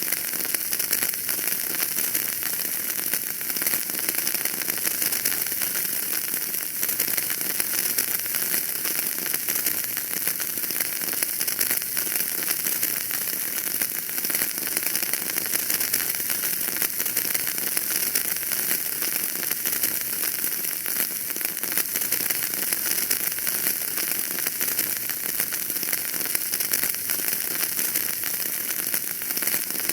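Wood fire crackling in a fireplace: a constant stream of small pops and snaps over a steady hiss.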